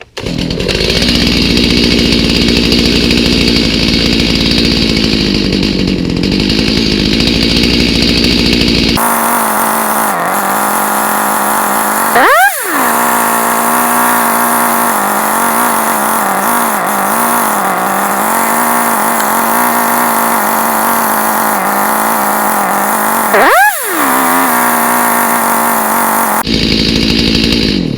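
Stihl MS290 two-stroke chainsaw engine running on a new aftermarket Chinese carburetor. It idles for about nine seconds, then is held at high revs, with two brief dips and recoveries, and drops back to idle near the end.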